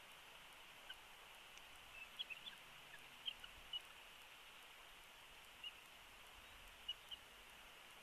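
Near silence with a steady faint hiss, broken by about a dozen short, high bird chirps scattered through it, most of them in the first few seconds.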